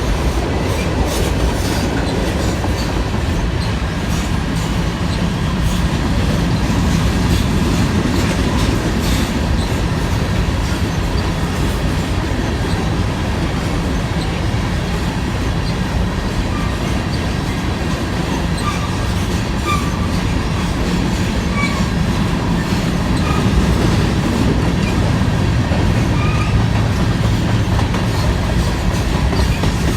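Freight train of covered grain hopper cars rolling past: steady wheel-on-rail noise with clickety-clack over the rail joints, and a few brief faint wheel squeals in the second half.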